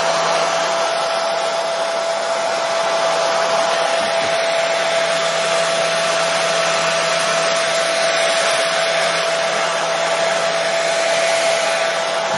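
Hair dryer running steadily: an even rush of blowing air with a steady whine from its motor.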